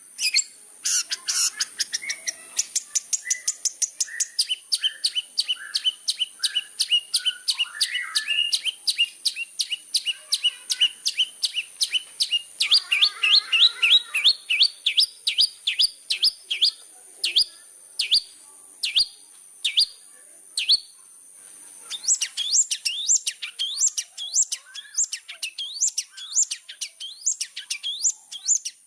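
Long-tailed shrike (cendet) in full song: an unbroken run of sharp, high-pitched chips, fast at first and slowing in the second half, with a short pause about 21 seconds in.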